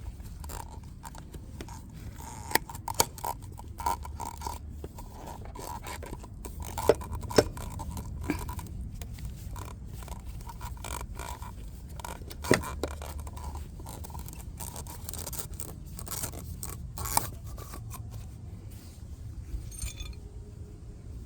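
Scraping and handling noises with scattered sharp metallic clicks and clinks, as a hand tool and metal parts are worked on a motorcycle, over a steady low hum.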